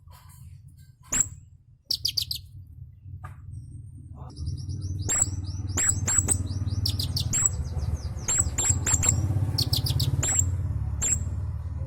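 Konin (kingfisher) calling actively, giving sharp, high chirps in short bunches that come thicker from about four seconds in. A low steady hum runs underneath from about the same point.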